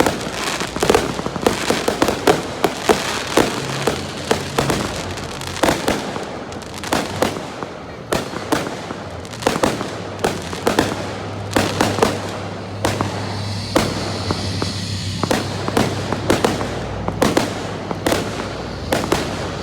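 Fireworks display: bangs in quick succession, several a second, over a continuous crackle, with a steady low hum in the second half.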